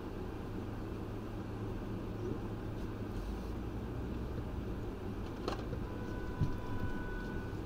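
Steady low rumble of a stopped car idling, heard from inside the cabin through a dashcam. A sharp click comes about five and a half seconds in and a short thump about a second later.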